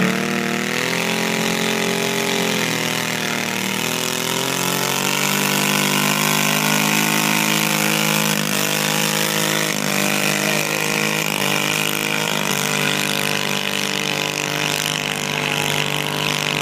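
Garden tractor engine running hard at high revs during a pull, its pitch dipping and recovering as it works against the load.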